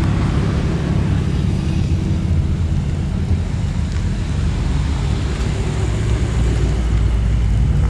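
A car engine running with a steady low drone, its pitch shifting slightly about five seconds in.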